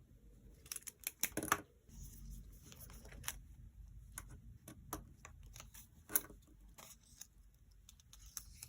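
Stationery being handled for journal decorating: irregular light clicks and taps with soft paper and sticker rustling, a quick run of clicks about a second in, then single taps every second or so.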